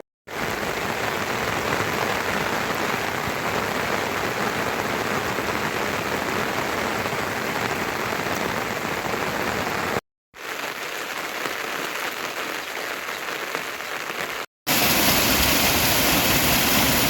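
Steady rain falling, heard in three separate shots joined by brief silent cuts about ten and fourteen and a half seconds in; the last shot is louder.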